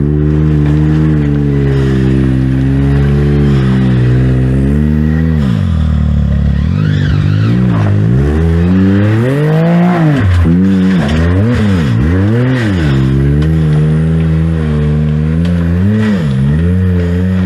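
Side-by-side UTV engine running steadily, then revved up and down in a series of short throttle blips for about ten seconds before settling back to a steady run.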